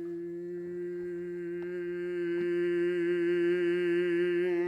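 A singer's voice holds one long steady note, growing gradually louder and brighter as the intensity builds while the pitch stays the same, with a slight vibrato creeping in near the end.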